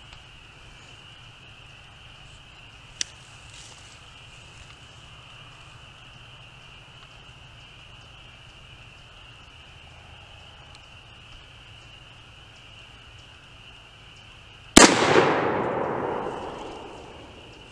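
A single 5.56 mm rifle shot (55-grain round) near the end, its echo dying away over about two seconds. A light click comes about three seconds in.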